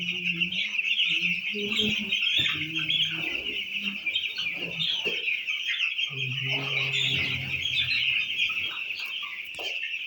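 A flock of 12-day-old broiler chicks peeping continuously as a dense, overlapping high-pitched chorus.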